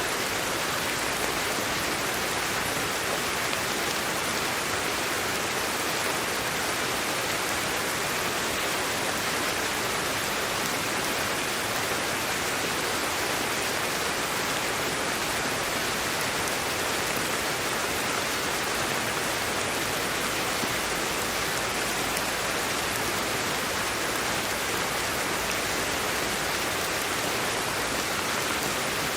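Steady sleep-aid white noise: an even, unchanging hiss with no drops, rhythm or other events.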